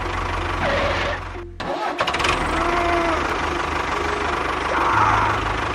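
A tractor engine starting and running with a steady low rumble. It cuts out briefly about a second and a half in, then starts up again.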